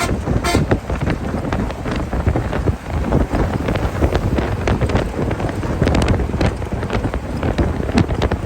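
Strong wind buffeting the microphone, steady and loud, with frequent irregular crackles.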